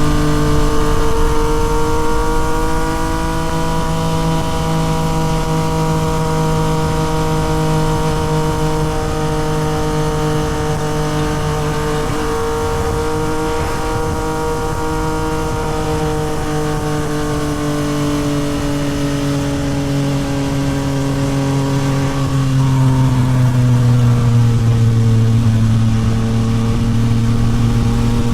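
Yamaha MT-09 SP's 890 cc inline-three engine running through a Toce full exhaust at a steady cruise. Its note holds nearly level, then slides lower and grows a little louder after about twenty seconds.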